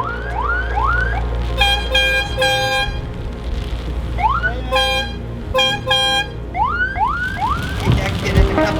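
Vehicle horns honking in short blasts, with a siren-style horn whooping in quick repeated rising tones in between, over steady low engine and road rumble.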